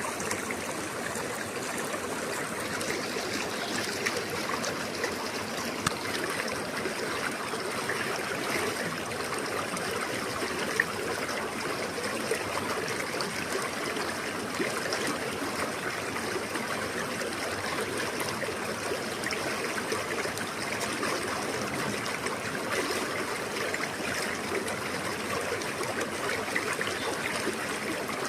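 Clear forest river flowing, a steady rushing and babbling of water with small splashes scattered through it.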